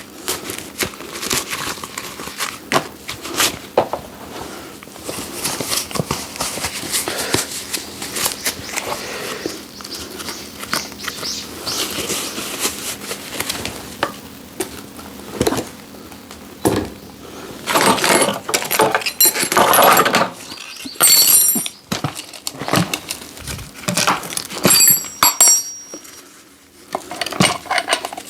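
Irregular knocks, clatters and crackles of things being handled, with a few short high squeaks in the second half.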